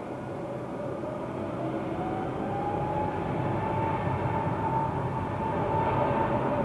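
Boeing 787-9 Dreamliner's jet engines whining over a low rumble, the whine climbing a little in pitch and the sound growing louder.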